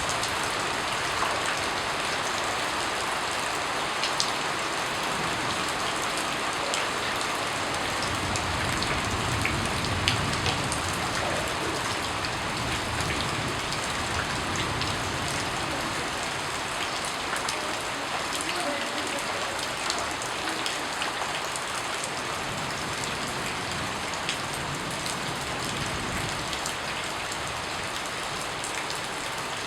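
Steady rain falling, with individual drops ticking sharply and irregularly over an even wash of rain noise.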